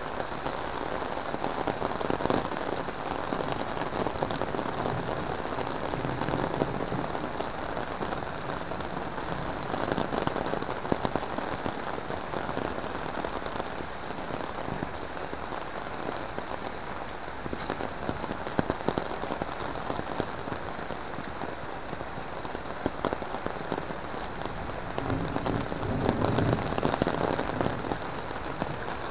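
Heavy rain falling steadily on foliage and a wet paved lane: a dense hiss with many single close drops standing out. It swells a little louder near the end.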